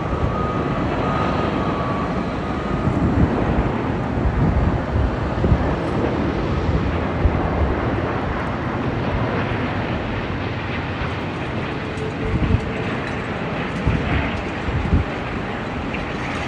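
Airbus A380's four jet engines at takeoff power: a loud, steady noise with a heavy, crackling low end. A faint whine fades out in the first two seconds.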